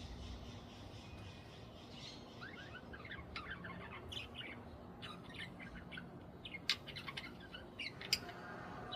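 Budgies chirping in short, scattered calls, with a couple of sharp clicks near the end.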